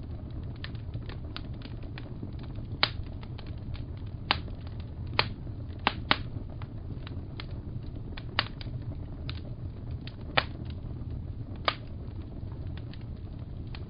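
Wood fire crackling: irregular sharp pops and ticks over a low steady rumble, with several louder pops scattered through.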